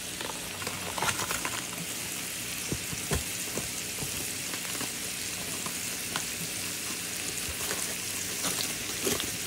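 Canned green beans sizzling in a pan of butter and sugar, a steady frying hiss with occasional light clicks from stirring.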